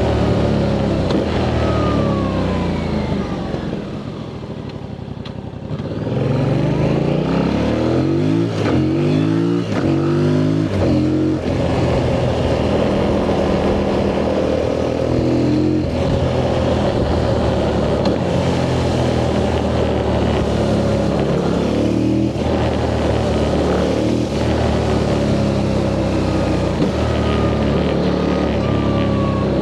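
2025 Yamaha MT-07's parallel-twin engine on its stock exhaust, under way. The engine note drops and quietens as the throttle closes about four seconds in. It then climbs in several rising sweeps, as through gear changes, and runs fairly steadily for the rest.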